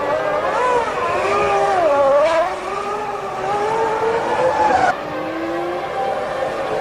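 Formula One cars' 3.0-litre V10 engines at high revs, the pitch rising and falling as the throttle is worked. The sound breaks off suddenly about five seconds in, and a steadier engine note follows.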